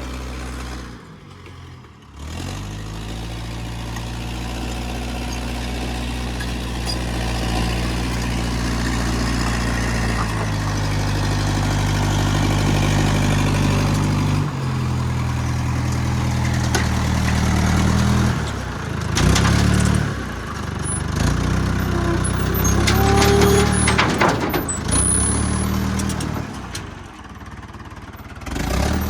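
International 125 crawler loader's diesel engine working under load in hard clay, its pitch rising and falling as it is throttled up and eased back. It drops off several times in the second half, with metallic clanks.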